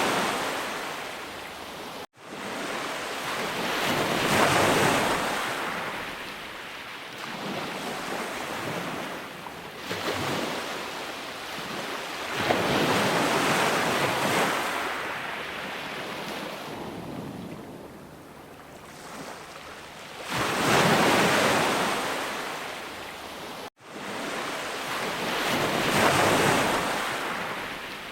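Sea waves breaking and washing on a shore, a hiss that swells and recedes in slow surges every several seconds. The sound cuts out twice for an instant, once about two seconds in and once near the end.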